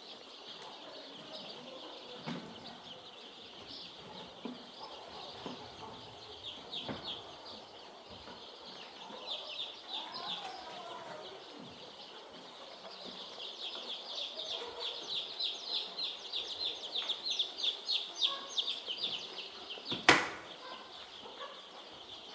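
A flock of young chicks peeping continuously in high, short cheeps that grow denser and louder in the second half. One sharp knock sounds near the end.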